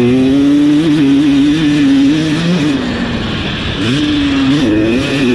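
Husqvarna TC250 single-cylinder two-stroke motocross engine at speed, held high on the throttle, then backed off for about a second and revved up again near the end.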